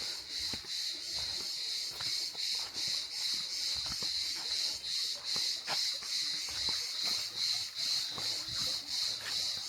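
Chorus of cicadas buzzing, a loud high-pitched drone that swells and fades about two to three times a second.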